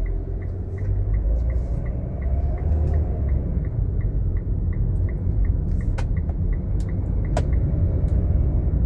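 Truck engine running with a steady low rumble, with a faint regular ticking a little over twice a second and a few sharp clicks late on.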